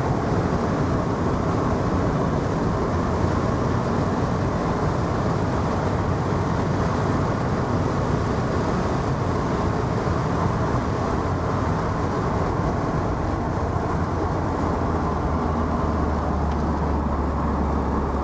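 A Vauxhall VX220's 2.2-litre 16-valve four-cylinder engine running steadily on the move, under constant road and wind noise in the open-topped car. A low drone grows stronger in the last few seconds.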